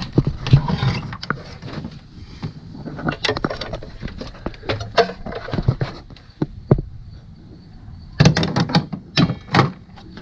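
Irregular metallic clinks and knocks of hand tools handled against engine parts, with a quick flurry of strikes near the end.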